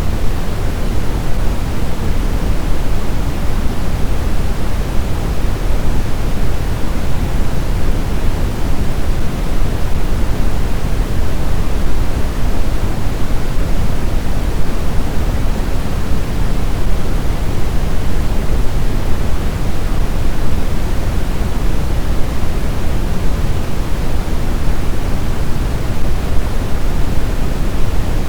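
Steady blizzard wind noise, a loud, even hiss weighted toward the low end, with no gusts, howls or breaks.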